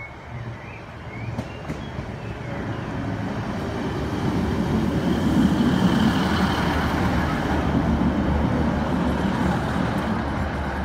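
ScotRail Class 156 diesel multiple unit drawing into the platform and passing close by, its diesel engine and wheels on the rails growing steadily louder until about five seconds in, then easing slightly as it slows. A faint high squeal sounds around the middle.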